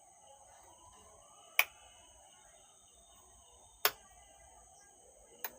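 Two sharp switch clicks about two seconds apart, and a fainter one near the end, over a faint steady electronic hiss with a thin high whine, as the repaired amplifier is switched on.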